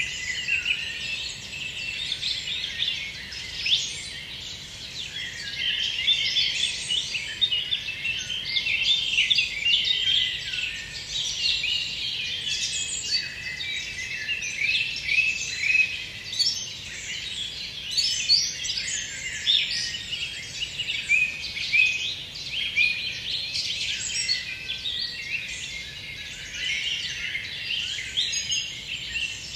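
Several forest birds singing at once: a dense, unbroken chorus of overlapping high chirps and short song phrases.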